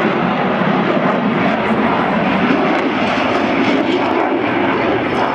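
Twin-engine fighter jet flying a display pass, its engines making a loud, steady rushing noise that holds through the whole stretch.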